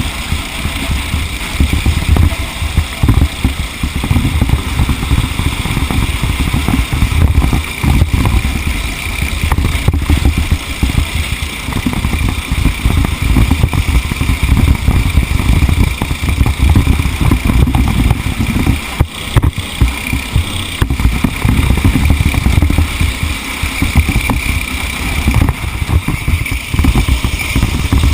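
TAG racing kart's two-stroke engine running continuously at race pace, with a rough rushing noise at the low end throughout.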